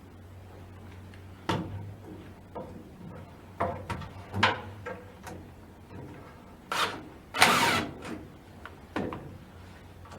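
Hand work on a boat's rubber shaft seal and its worm clamps: scattered knocks and clicks of tools and metal parts, with a longer scraping rasp about seven and a half seconds in, over a steady low hum.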